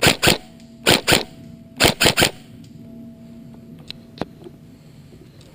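Airsoft electric gun firing single shots: seven sharp cracks in quick groups of two, two and three within about two and a half seconds, followed by two faint clicks.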